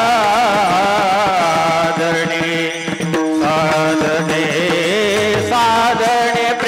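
Devotional kirtan music: a melodic line sung with strong wavering vibrato over sustained accompaniment.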